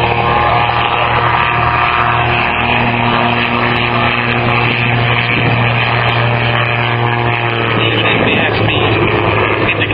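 Calidus autogyro flying past, its pusher-propeller engine running with a steady drone. The engine's pitch drops and fades at about eight seconds in.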